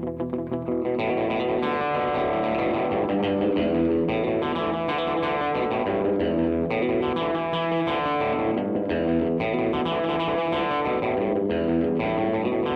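Electric guitar played through a DemonFX reverb and delay pedal. A quick repeated picked figure gives way about a second in to fuller, sustained notes and chords that run on steadily.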